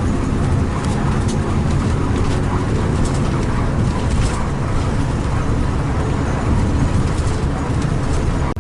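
Intercity coach driving at speed: a steady rumble of engine and road noise.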